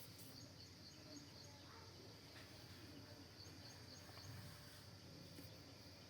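Near silence: faint background noise with a steady high-pitched whine.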